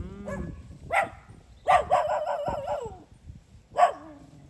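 A dog barking: a few sharp barks with a longer wavering yelp between them.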